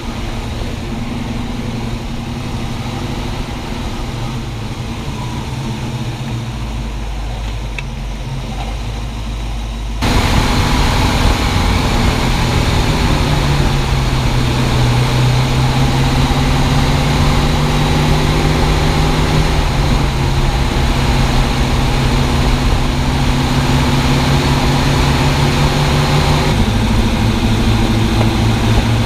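1965 Ford Mustang driving, engine running steadily under road noise. About ten seconds in the sound turns suddenly louder and fuller with rushing road and wind noise, and a few seconds later the engine note rises and holds. The rubbing noise the owner hears inside the car does not come through.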